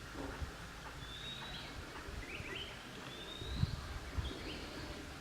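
A bird calling over and over: a short high whistle that rises at its end, about every two seconds, with a few short falling notes in between. Steady outdoor background noise lies underneath, and a couple of low thumps come about three and a half seconds in.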